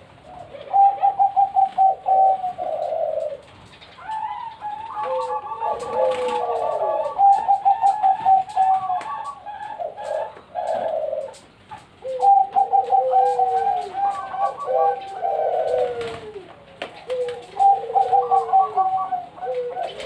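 Several perkutut (zebra doves) cooing together in overlapping bouts, each a string of quick stuttering notes with falling coos, repeating every few seconds.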